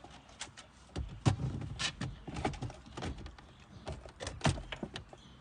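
Irregular clicks and knocks, about a dozen, spread unevenly from about a second in, the loudest a little past a second and at about four and a half seconds.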